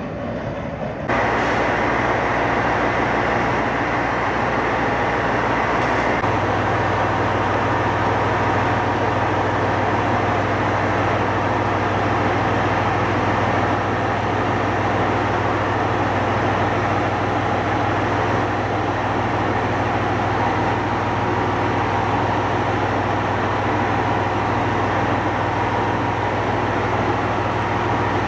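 Passenger railcar standing at the platform with its engine and equipment idling: a steady hum over a low drone, which deepens a little about six seconds in.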